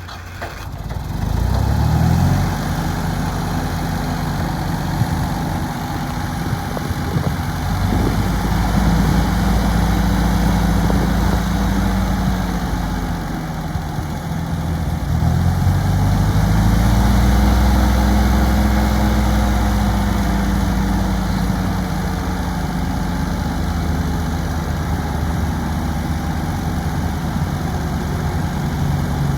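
Ford 2000 tractor's gas engine running, revving up in the first two seconds and again around eight and fifteen seconds in, then easing back to a steady run.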